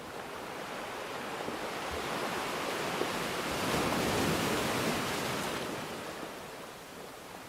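Rushing water noise, an even hiss with no tones, that swells slowly to a peak about four seconds in and then eases off again.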